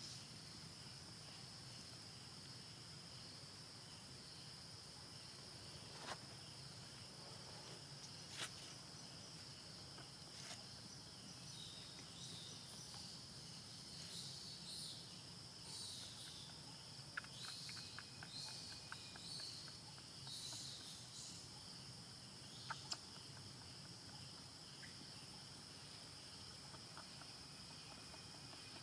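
Faint, steady high-pitched drone of insects such as crickets, with a few sharp clicks and a run of short high chirps near the middle.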